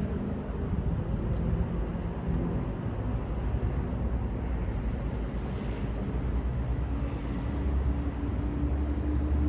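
Night city street ambience: steady traffic noise with the low rumble of passing vehicles, one vehicle's engine hum strengthening near the end.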